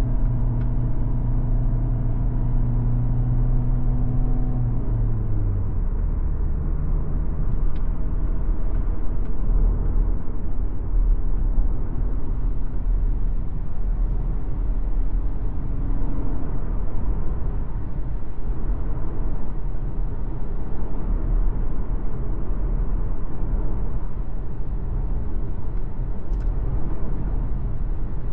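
MG ZS Hybrid+ driving, with steady tyre and road rumble throughout. A steady hum from the hybrid drivetrain drops in pitch and fades about five seconds in, and a faint hum returns briefly near the middle.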